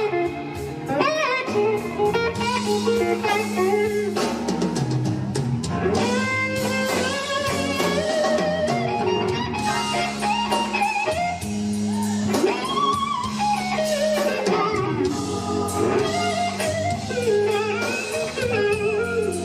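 Blues electric slide guitar solo, its notes gliding up and down in pitch, over a band with bass and drums.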